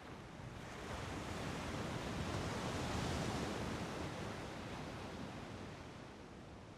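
A rushing noise that swells over about three seconds and then fades away.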